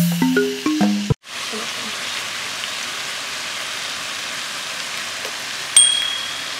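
Yakisoba noodles with sauce, bean sprouts and pork sizzling steadily in a frying pan, after a second of music notes at the start. A short high beep sounds near the end.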